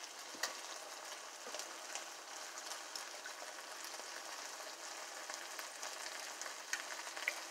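Ground turkey, peas and carrots sizzling gently in a skillet: a steady soft hiss with scattered small crackles.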